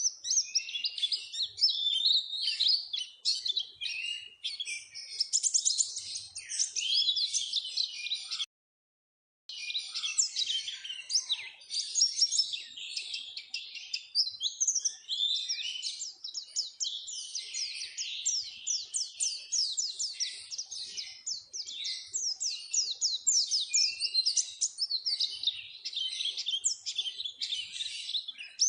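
White-eye (pleci) song: a fast, continuous, high-pitched twittering of rapid chirps and trills, played as a lure recording to set captive white-eyes singing. It drops to dead silence for about a second near a third of the way in, then resumes.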